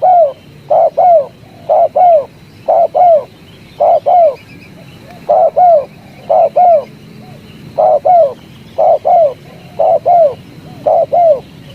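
Spotted dove (tekukur) cooing close up: a steady series of short two-note coos, each note arching down in pitch, about one pair a second.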